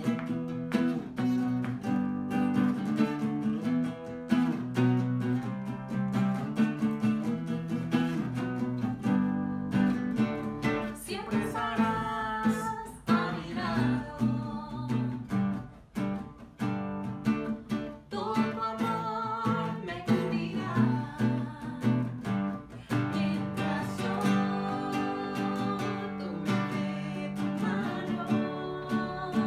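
Acoustic guitar strumming a worship song, with a voice coming in to sing about a third of the way through.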